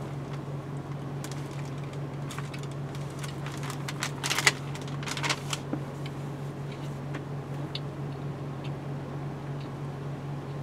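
Someone chewing a soft, chewy cookie: scattered small mouth clicks and smacks, the loudest about four seconds in, thinning out toward the end, over a steady low hum.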